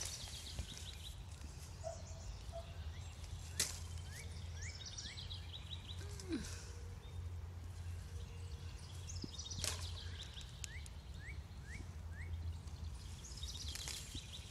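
A songbird singing the same short phrase over and over, about every six seconds: a high trill followed by four quick rising notes. A steady low hum runs underneath, with a few short clicks.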